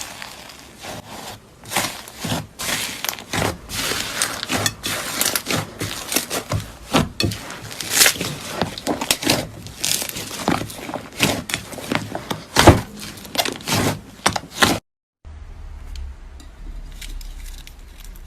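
Slime being squeezed and worked by hand, giving a dense run of irregular crackling and popping clicks. About fifteen seconds in the sound drops out briefly and gives way to a quieter stretch with a steady low hum and a few faint clicks.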